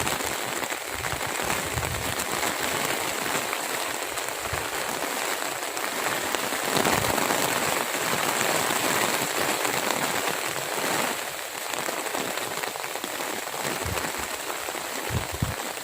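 Steady rain falling, an even hiss, with a few low thumps.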